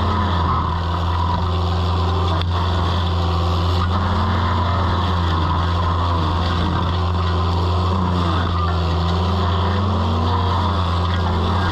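Toro Dingo mini skid steer's engine running steadily, with a fainter whine over it that rises and falls in pitch every few seconds.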